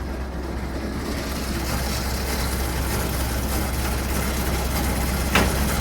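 Tow truck engine idling with a steady low hum. A short knock comes near the end.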